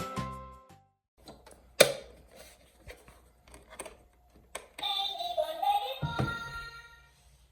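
Background music ends, followed by a sharp click and then a second click. A short electronic sound effect from the BABY born Poo-Poo Toilet toy plays after that, its pitch bending, with a thud near its end.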